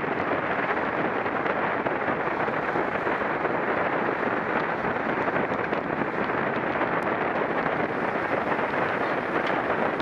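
Steady rushing wind noise on the microphone, as from a camera moving at bike-race speed.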